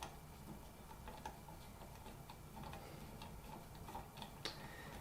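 Faint, irregular clicking of a ratchet screwdriver as a screw is backed out by hand, with one sharper click about four and a half seconds in.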